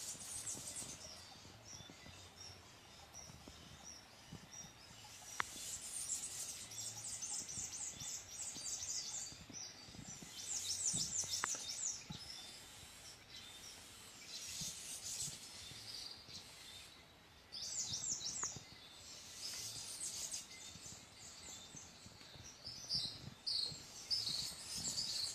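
Birds singing: repeated bursts of rapid, high-pitched chirping trills, several seconds apart, over a faint steady background hiss.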